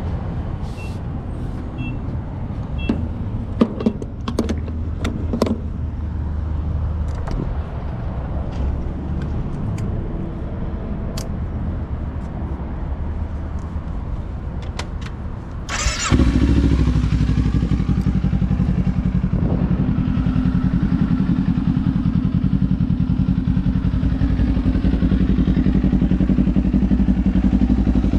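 Clicks and knocks over a low hum, then, about sixteen seconds in, a Kawasaki Ninja 500's parallel-twin engine with a Leo Vince aftermarket exhaust starts with a sudden burst and settles into a steady, even idle.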